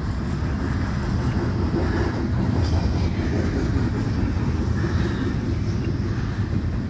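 Double-stack intermodal freight train's loaded well cars rolling past: a steady low rumble of steel wheels on the rails.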